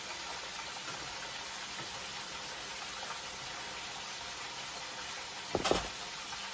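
Chicken tenders deep-frying in oil under a lid: a steady sizzling hiss, with one short knock a little before the end.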